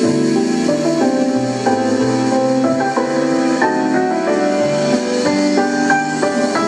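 Music played through a pair of Tonsil Altus 140 loudspeakers: keyboard chords and a melody of short stepping notes over a stepping bass line.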